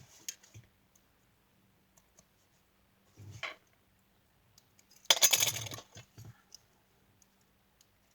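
Handling of a die-cutting machine's metal die and cutting plates on a tabletop: a few light clicks and knocks, then a short metallic clatter about five seconds in.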